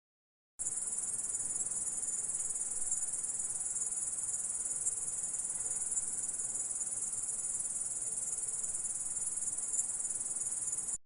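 Grasshopper stridulating in one steady, unbroken high-pitched trill. It starts about half a second in and cuts off suddenly at the end.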